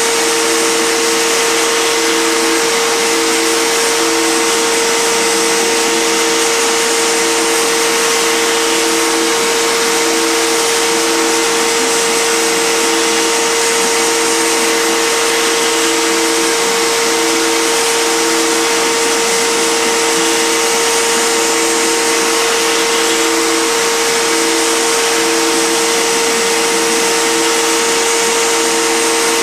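Fine Line Automation 3x3 CNC router carving a 3D relief: the spindle runs with a steady whine over a dense hiss, while a lower tone cuts in and out about once a second.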